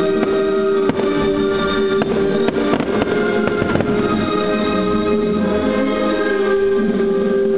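Music with long held notes playing over a fireworks display, with scattered cracks and pops of fireworks going off.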